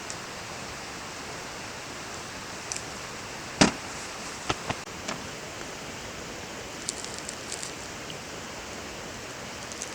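Steady rush of a mountain stream, with a few sharp pops or clicks, the loudest about three and a half seconds in and two smaller ones a second or so later.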